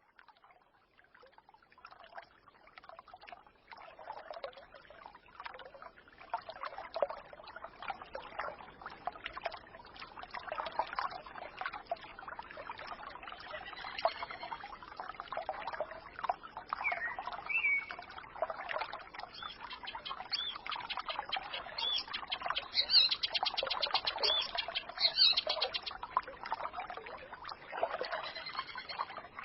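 Small forest stream babbling and trickling, fading in from near silence over the first few seconds. Birds chirp over it now and then, with a quick run of high chirps about three-quarters of the way through.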